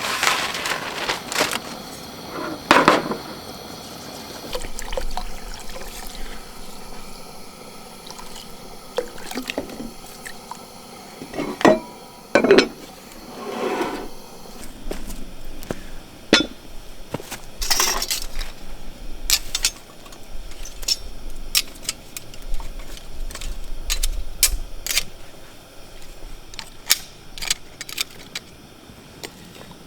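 Camp cooking and eating sounds: scattered light clinks and knocks of cookware and utensils, with a few louder scraping or rustling handling noises.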